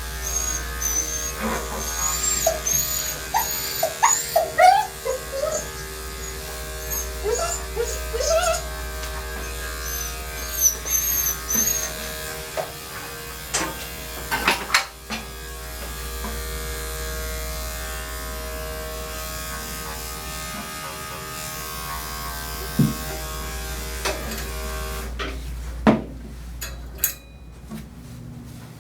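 Electric dog-grooming clippers running steadily on the coat, with the dog whining in wavering high cries over the first several seconds. The clippers switch off a few seconds before the end, followed by a few clicks, with a low bass hum underneath throughout.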